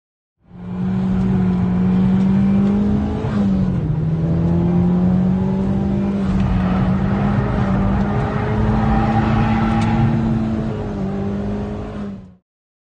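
Mitsubishi Lancer Evo VII's turbocharged four-cylinder engine, heard from inside the cabin, driven hard around a track. The engine note holds fairly steady, with a short dip in pitch about three seconds in, and the sound cuts off just before the end.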